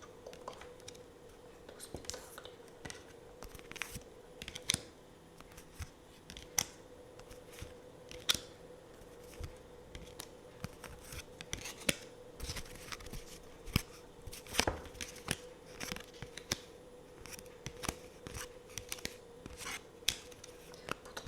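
Tarot cards being handled and shuffled close to the microphone: an irregular run of crisp clicks, snaps and light slaps of card stock, over a faint steady hum.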